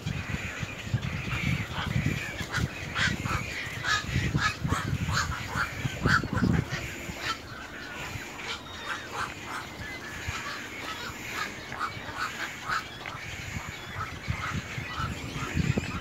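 Birds giving short, sharp calls in quick series, several a second, thinning out in the second half, over a low uneven rumble.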